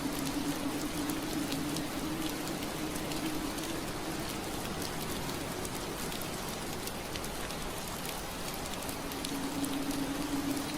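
Steady soft rain on window glass, with scattered drops ticking against the pane. Under it runs a low steady hum that fades out partway through and comes back near the end.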